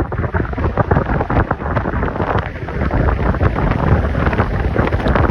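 Loud wind buffeting the microphone from a moving car, a heavy rumbling roar with rapid gusty flutter.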